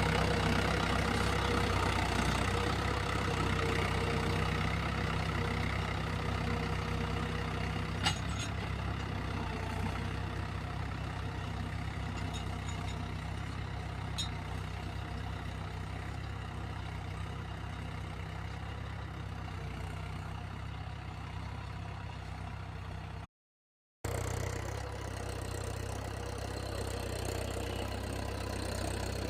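Tractor engine running steadily while ploughing, slowly growing quieter over the first several seconds, with a sharp click about eight seconds in. The sound cuts out completely for under a second near the end, then the engine drone resumes.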